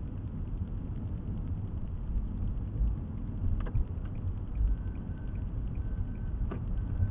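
Car interior noise while driving, recorded by a dash cam: a steady low road and engine rumble, with two sharp knocks about three and a half and six and a half seconds in.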